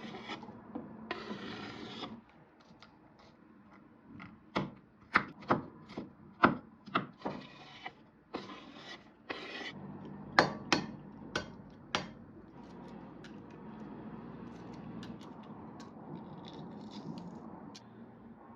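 Rubbing and scraping on wood, with two runs of sharp knocks at about two a second.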